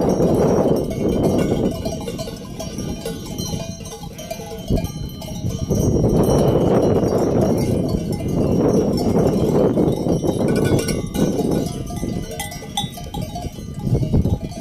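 Livestock bells on sheep and goats clanking and ringing as the flock moves, over a loud rough rushing noise that eases off for a few seconds and returns.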